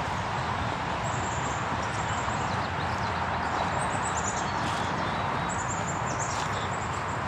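Small birds calling in short series of thin, high chirps over a steady background rush of outdoor ambience, with soft footsteps along the trail.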